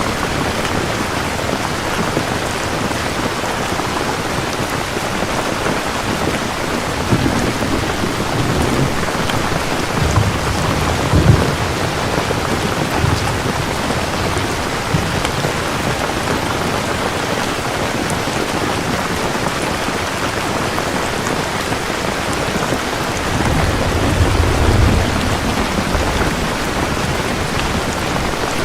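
Steady rain falling, with thunder rumbling twice: a longer roll from about a quarter of the way in to nearly halfway, with a sharper clap in the middle of it, and another roll near the end.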